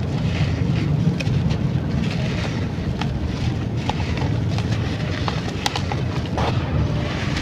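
Crunchy brown sand-clay crumbling, with scattered small crackles and clicks over a steady low rumble.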